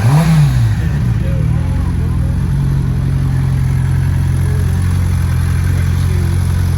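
Motorcycle engine revving briefly, pitch rising and falling in the first second, then running at a steady note.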